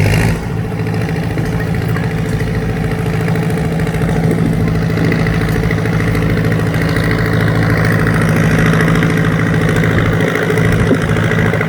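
International Super WD-9 tractor engine running steadily at a slow, even speed.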